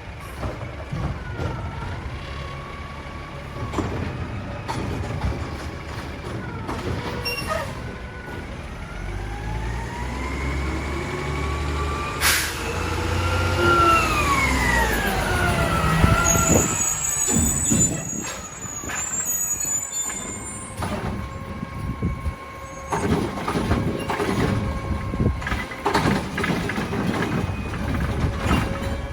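Mack LR garbage truck working, its engine running with pitch rising and falling through the middle, a sharp snap about twelve seconds in, and a high squeal from about seventeen to twenty seconds in.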